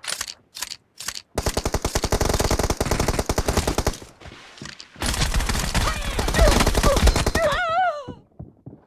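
Video-game automatic gunfire: a few short bursts, then two long bursts of rapid shots with a pause between them. A brief wavering pitched sound comes near the end of the second burst.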